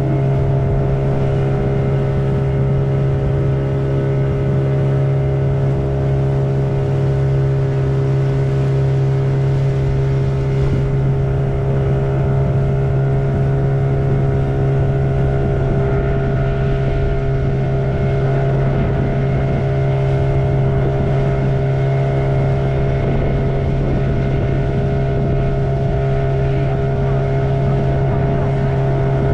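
Motorboat engine running at a constant speed: a steady, unchanging hum with a strong low tone.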